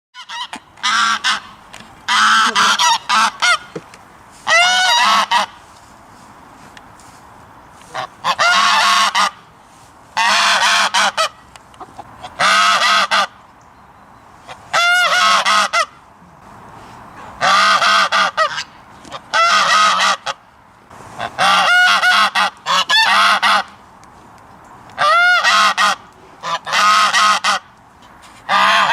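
Goose honking: loud calls of under a second each, coming in short runs of two or three about every two seconds.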